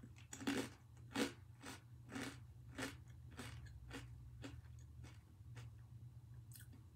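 Mouth chewing a bite of Kinako Azuki Crunch, a thick cracker-like snack of roasted soybean powder and crushed cornflakes: a steady run of crunches about twice a second, loudest in the first second or so and growing fainter as the bite is chewed down.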